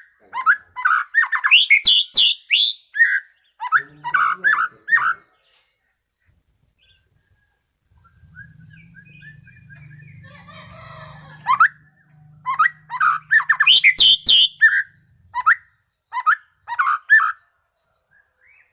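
White-rumped shama (murai batu Medan) singing loud, rapid, varied whistled phrases in two long bursts separated by a pause of a few seconds. A faint low hum runs through the pause.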